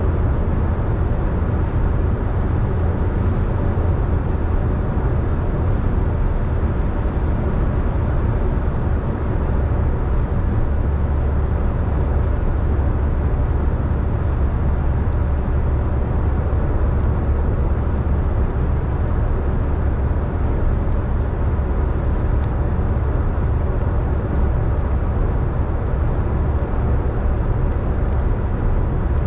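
Steady road noise of a car driving on a wet road in the rain: a continuous low rumble with a hiss above it, unchanging throughout.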